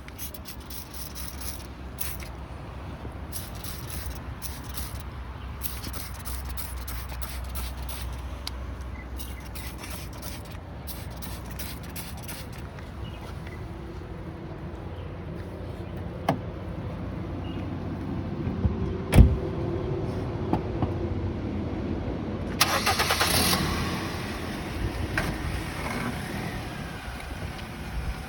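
A car running, a steady low rumble with scattered clicks and one sharp knock about two-thirds of the way through.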